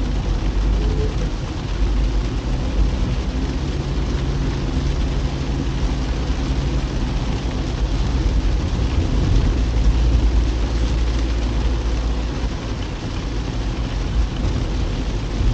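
Car driving on a wet road in the rain: a steady low rumble of engine and tyres with an even hiss of rain and spray.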